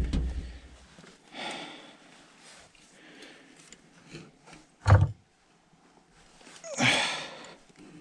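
One hard knock about halfway through, with heavy, noisy exhales before and after it, as an overtightened fitting on a furnace gas valve is strained at with tools.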